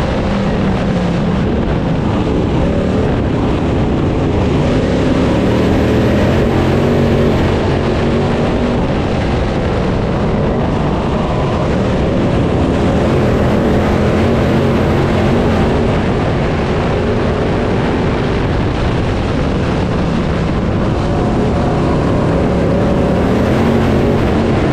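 Crate late model race car's V8 engine running hard under racing load, its pitch repeatedly climbing and dropping as it accelerates and lifts around the dirt oval.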